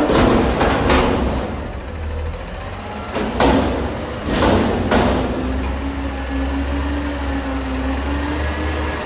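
Garbage truck working: its engine runs steadily under a whine that rises slightly, broken by several short hissing or clattering bursts near the start and again about halfway through.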